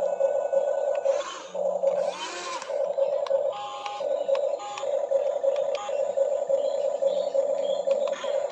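Steady electric whine of a radio-controlled excavator's hydraulic pump motor, breaking off briefly several times.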